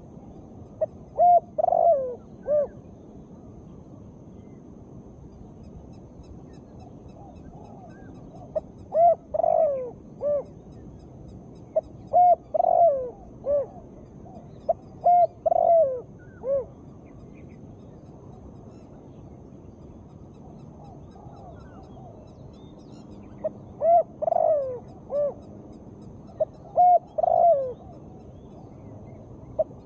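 Spotted dove cooing: short phrases of a few coos each, repeated with pauses of several seconds between them, over a steady background hiss. The uploader presents the calls as a female's.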